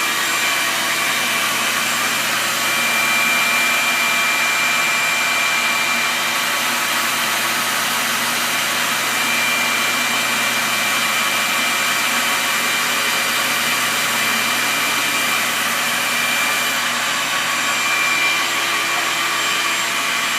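Homemade drum sander running steadily, its belt-driven drum sanding a board that the slow conveyor feeds through; an even whirring noise with a few steady tones that does not change.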